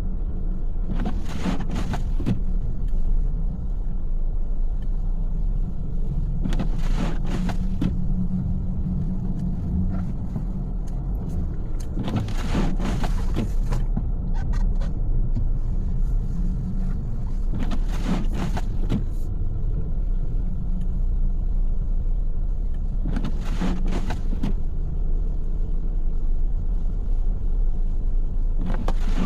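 Steady car road and engine rumble heard from inside the cabin, with a windshield-wiper sweep about every five and a half seconds.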